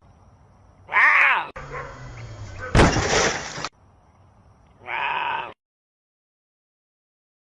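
A quick run of short meme sound clips: a bleat-like pitched cry about a second in, a noisy stretch and a loud burst, and another bleat-like cry around five seconds, then silence.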